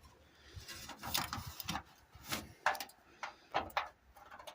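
Chrome engine-lid latch cover being pressed and wiggled against the metal engine lid as its tabs are worked into place: an irregular series of short metal clicks and scrapes.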